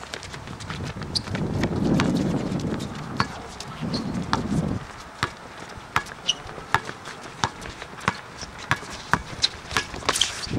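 Basketball game in play: the ball bouncing on the court, with footsteps and brief sneaker squeaks, as a string of sharp, irregular knocks. A low murmur runs under the first few seconds.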